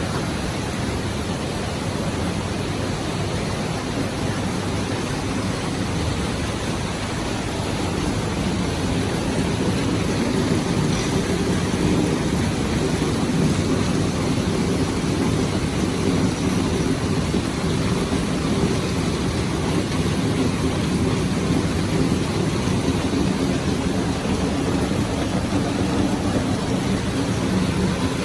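Heavy rain coming down in a steady rush, growing somewhat louder and deeper about eight seconds in.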